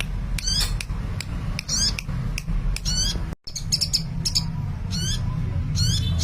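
Sunbird singing energetically: quick, high, zigzagging trill phrases repeated every half second or so over a steady low hum, with a brief dropout about halfway through.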